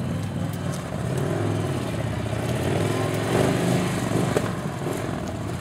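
Victory Commander I police motorcycle's V-twin engine running at low speed through a cone course, its pitch rising and falling with the throttle.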